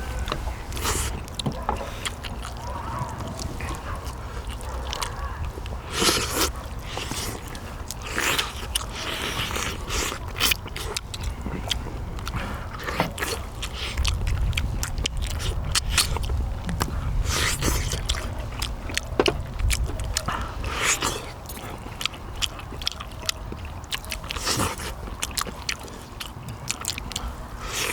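Eating pork-bone soup: chewing and biting meat off the pork bones, with many sharp clicks and scrapes of bones and utensils, over a low steady rumble.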